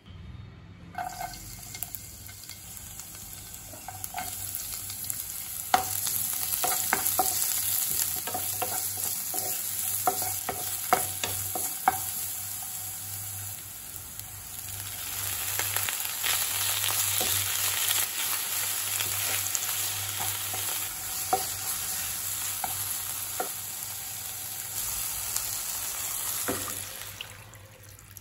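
Onion and garlic sizzling in hot oil in a non-stick pan, stirred, with scattered clicks of the utensil against the pan. The sizzle eases briefly around the middle as a handful of spinach goes in, then picks up again. It dies down near the end as water is poured into the pan.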